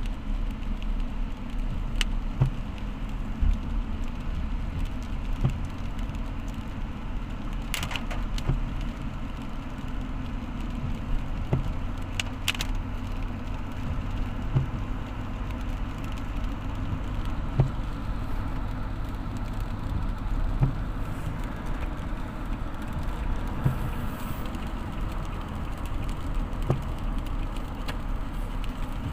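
A motor vehicle driving, with a steady low rumble and light knocks about every one and a half to two seconds.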